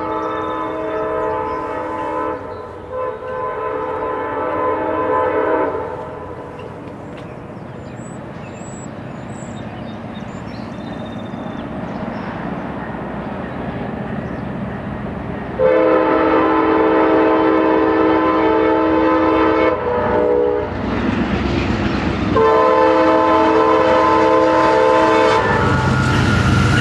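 VIA Rail passenger train approaching at speed, its Siemens Charger locomotive's multi-note air horn sounding two long blasts, then after a growing rumble of the approaching train, a long blast, a brief short one and another long one. Near the end the rumble of the train grows louder as it reaches the platform.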